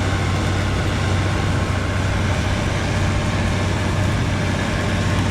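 Tractor engine running steadily with a low, even hum that does not change in pitch.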